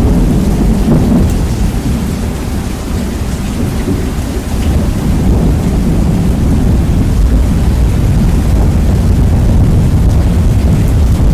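Rain with thunder, heavily bass-boosted and overdriven, so that a continuous deep rumble dominates over the hiss of the rain. It grows slightly louder near the end.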